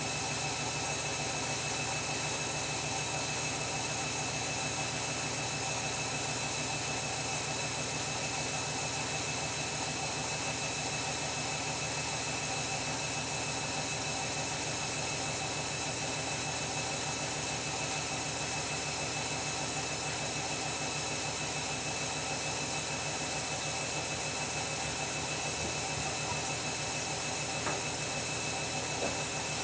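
Washing machine spinning fast: a steady motor whine over a constant low drum hum.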